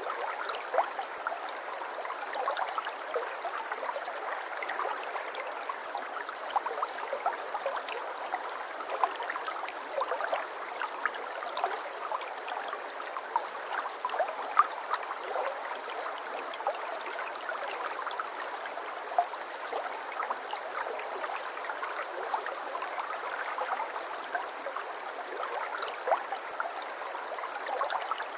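Shallow brook babbling steadily: an even rush of running water with many small, quick splashes and trickles over it.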